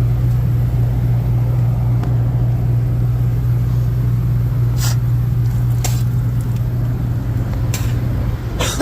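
Rooftop HVAC unit running with a steady low hum, with a few short sharp clicks or taps in the second half.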